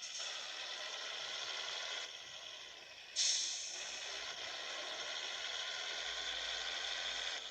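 Scania 111 truck on the move: steady diesel engine and road noise that dips about two seconds in and comes back with a sudden jump a second later.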